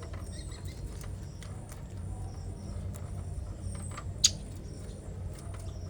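Small cage birds giving faint high squeaky chirps, with one short, sharp high chirp about four seconds in, over a steady low rumble.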